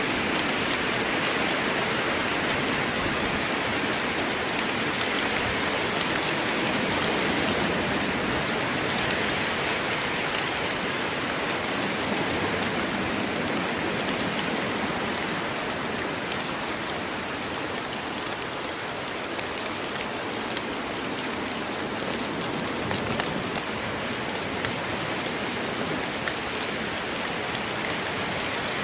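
Steady rain falling in a forest, an even hiss with scattered close drop ticks.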